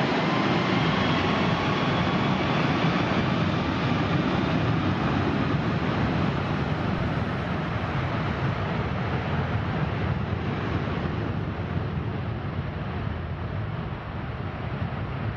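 Jet airliner engine noise: a broad rush with a faint high whine in the first few seconds, slowly fading as the plane moves away.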